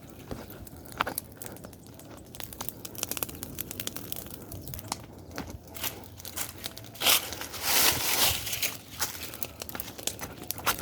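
Bonfire of dry branches burning, crackling with many scattered sharp pops, and a louder stretch of rustling about seven to eight and a half seconds in.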